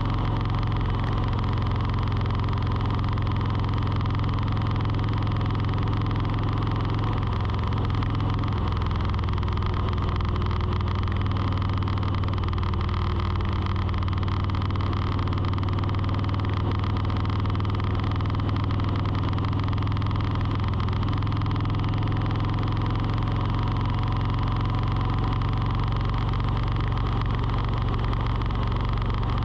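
Steady low engine or motor hum with several tones stacked above it, shifting slightly in pitch about a quarter of the way in and again about two-thirds through.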